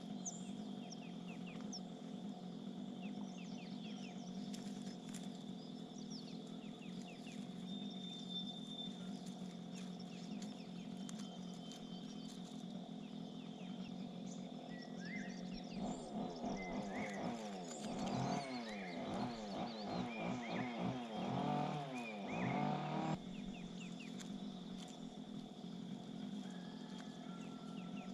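Birds calling outdoors over a steady background hum, with scattered thin chirps. A little past halfway, a louder run of harsh, rapidly wavering bird calls sets in for several seconds and cuts off abruptly.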